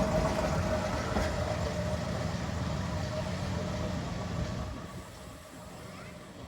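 Diesel railbus engine idling with a steady low rumble and a held tone; the sound drops away and quietens about five seconds in.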